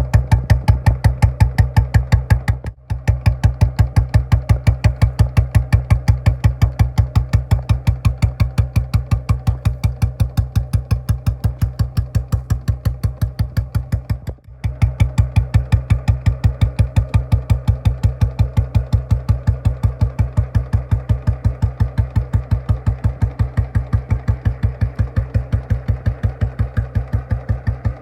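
Royal Enfield Bullet's single-cylinder four-stroke engine idling loud, with an even, steady beat from the exhaust. The sound cuts out for an instant twice, about three seconds in and about halfway through.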